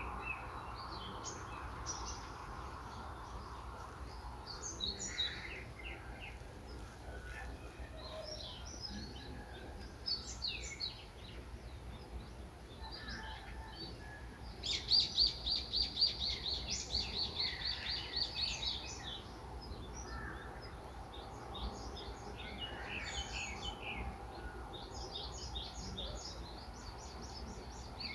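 Small songbirds chirping and singing, with a loud, fast trill of rapidly repeated high notes lasting about three seconds just past the middle, over a steady low background noise.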